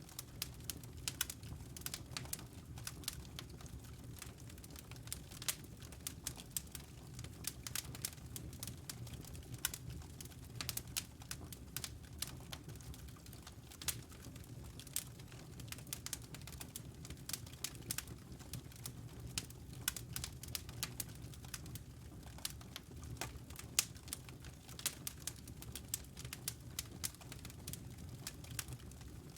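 Wood fire burning in a fireplace, crackling and popping irregularly over a low, steady rumble of flame.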